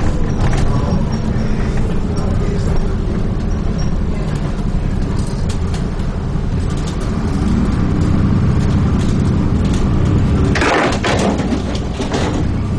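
Dennis Trident 2 double-decker bus heard from inside the cabin, its diesel engine running steadily under way, with scattered rattles and clicks. About ten seconds in, a short burst of air hiss, followed by a weaker one.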